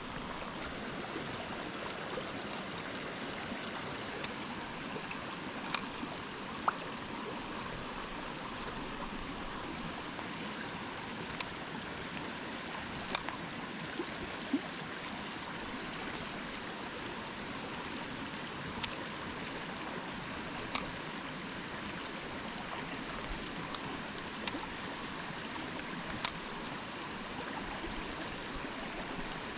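Mountain stream running steadily, with a few sharp ticks scattered through it.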